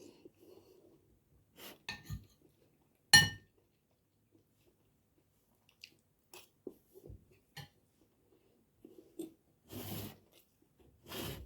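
Close-up eating sounds: soft chewing, with a spoon or fork clinking on a plate, one loud sharp ringing clink about three seconds in. Two short noisy scrapes or slurps come near the end.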